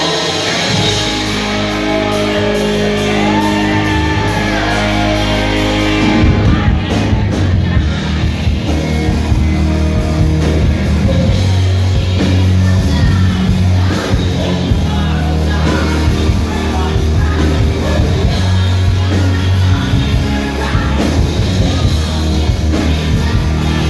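Live rock band playing in a large hall: held guitar and bass notes at first, then the drums and full band come in about six seconds in, with singing and shouts over the music.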